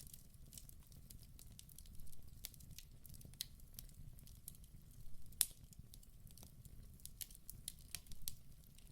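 Wood fire burning in a fireplace, with a low rumble under frequent sharp, irregular crackles and pops; the loudest pop comes a little past halfway.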